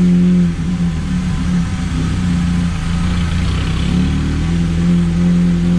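Off-road 4x4 vehicle engine running while driving, its note easing off about half a second in and climbing again near the end as the throttle changes.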